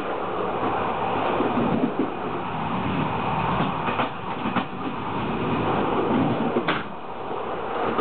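Corail Intercités passenger train rolling along the track: a steady rumble of steel wheels on rail, heard from the rear of the train. A few sharp clacks stand out, about two, four and six to seven seconds in, as the wheels cross points.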